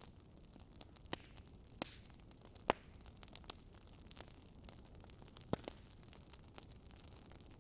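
Wood fire crackling: a soft steady hiss with irregular sharp pops, a few close together, the loudest about a third of the way in.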